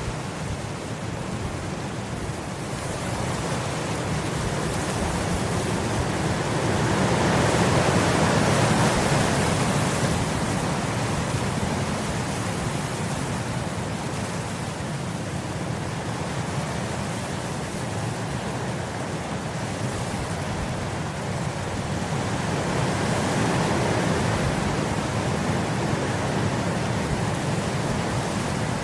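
Wind blowing across grass, a steady rushing that swells in gusts, strongest about a quarter of the way in and again near the end.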